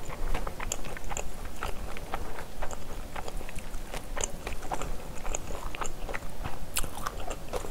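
Close-miked chewing and biting of a mouthful of stir-fried spicy pork and rice, with many irregular wet mouth clicks and smacks.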